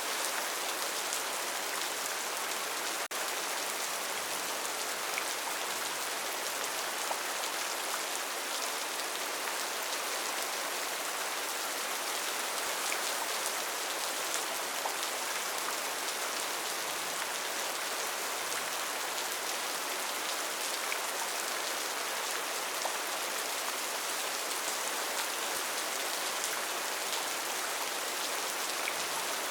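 Steady rainforest rain: an even hiss of heavy rainfall dotted with many small drop ticks, with a brief dip about three seconds in.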